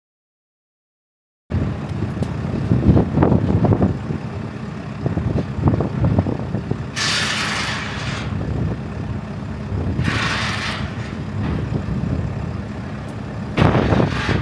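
Diesel plant machinery running steadily on a demolition site, with scattered knocks. Two short hissing bursts come about halfway through.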